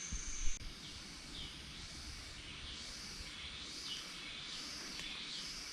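Forest insects droning in a high chorus that swells and fades about twice a second. A steady high insect whine cuts off about half a second in, with a few low thumps near the start.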